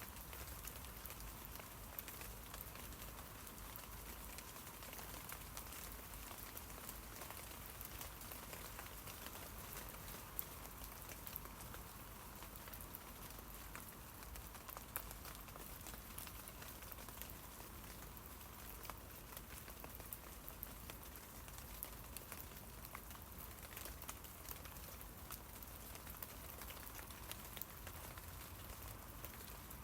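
Steady rain falling on tree leaves: a soft, even hiss dotted with the ticks and taps of single drops, a few of them louder than the rest.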